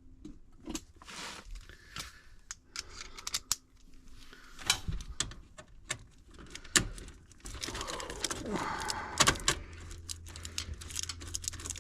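Small clicks, taps and metallic clinks from hand-tool work on HVAC equipment while a blower relay is removed for replacement. A low steady hum comes in past the middle.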